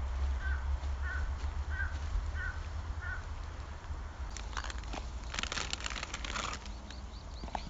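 A bird calls five times in an even series, about one call every two-thirds of a second. A few seconds later comes a spell of crackling, rustling clicks, all over a steady low rumble.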